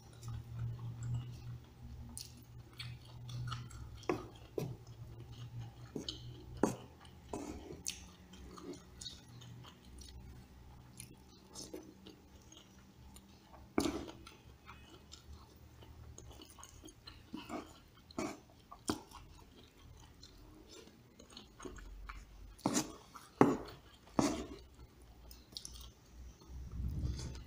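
Close-up chewing and mouth sounds of a person eating rice with soto kuning, with irregular sharp clicks and taps, the loudest ones about 14 seconds in and again around 23 to 24 seconds.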